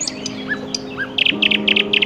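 Songbirds chirping: two short whistled notes, then a quick run of about five sharp chirps near the end.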